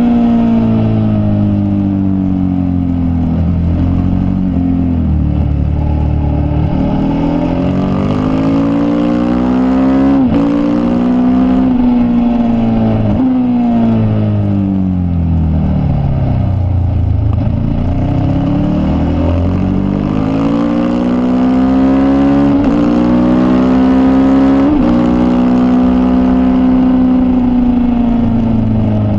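Racing motorcycle engine heard from the bike itself on track, revving up and down as it is ridden hard. The pitch climbs through the gears with sudden drops at each upshift, several times, and falls away as the bike slows for corners.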